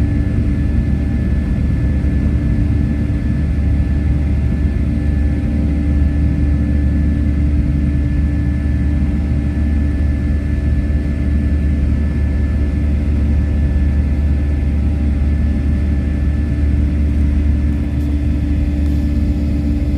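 Steady low rumble of an ANA airliner's engines at takeoff power, heard from inside the cabin, with a few steady tones running through it.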